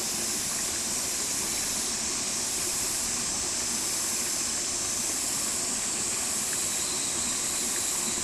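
A stream flowing: a steady, even rush of water with no breaks or separate sounds.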